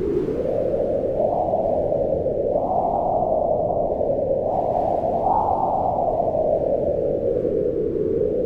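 Wind blowing, a steady rushing noise whose pitch swells up and sinks back a few times, highest about five seconds in and dropping lower near the end.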